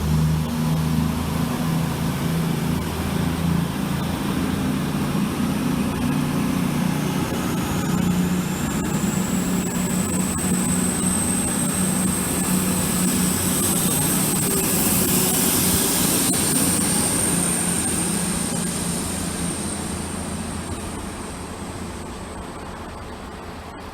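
CrossCountry Class 220 Voyager diesel multiple unit departing, its underfloor diesel engines running under power with a steady low drone and a high whine that rises slightly. The train fades away over the last several seconds as it pulls out of the station.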